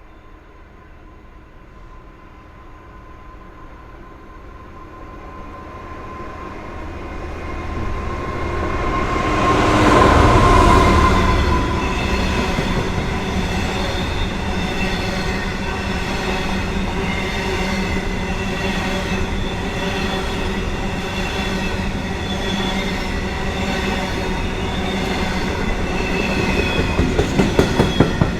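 A train passing through the station. It approaches and grows louder to a peak about ten seconds in, then runs on steadily for the rest of its length with ringing wheel tones on the rails. A quickening run of clicks from wheels over rail joints comes near the end.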